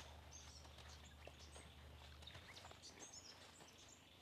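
Near silence outdoors: faint birds chirping now and then, over a low steady hum that stops about two and a half seconds in.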